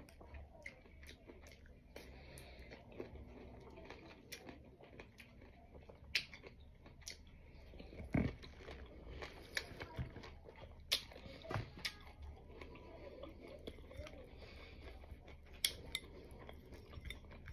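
A person chewing and biting food close to the microphone, with scattered small clicks and knocks.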